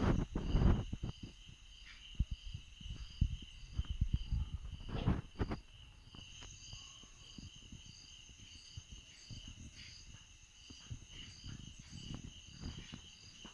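Insects, cricket-like, calling steadily in a high chorus, one of them in a regular pulse about twice a second. Low knocks and rumbles come and go under it, mostly in the first half.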